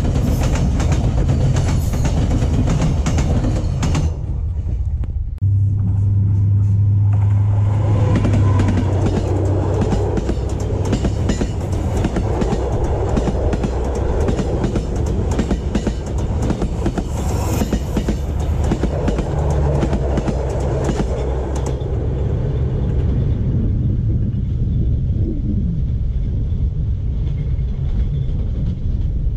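Passenger train coaches on ball-bearing axleboxes rolling past close by: a loud, steady rumble of wheels on rail, with clicks and clatter over the joints. There is a break about four seconds in, and the sound thins out well before the end as the last coach goes by.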